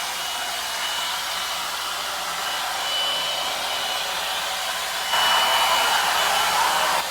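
Hot-air hair dryer brush running, a steady rush of air with a thin high motor whine. About five seconds in it gets louder for around two seconds, then drops back.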